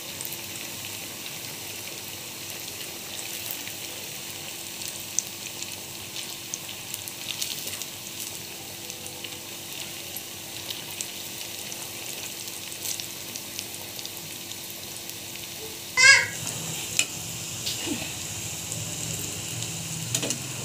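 Samosa rolls deep-frying in hot oil: a steady sizzle full of small crackling pops, with a slotted spoon stirring them in the pan. A little over three-quarters of the way through, a brief, loud run of high, rising chirps cuts in over the frying.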